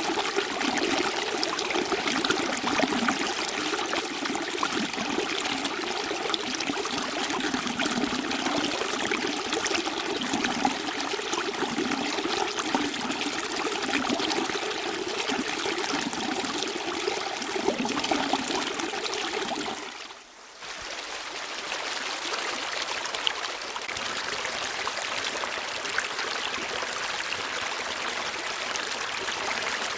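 Running water flowing steadily, with a lower burbling undertone. About two thirds of the way through it drops away for a moment and comes back hissier, without the low burble.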